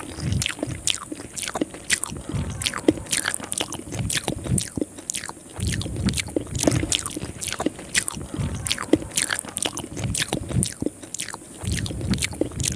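Close-miked wet chewing of soft rice vermicelli soaked in coconut milk: squishy mouth clicks and smacks, several a second, with soft low thuds between them.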